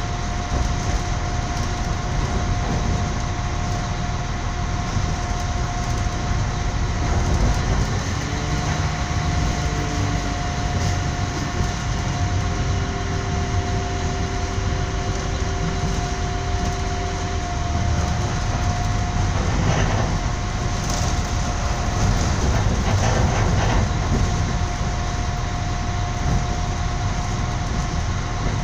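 Steady rumble of a moving passenger train heard from inside the carriage, with a constant high whine running through it.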